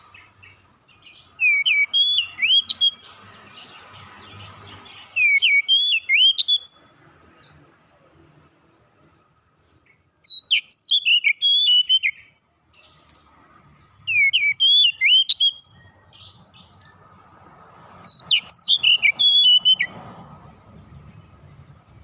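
Oriental magpie-robin (kacer) singing: five loud phrases of quick, sliding whistled notes, each lasting a second or two, with pauses of a few seconds between them.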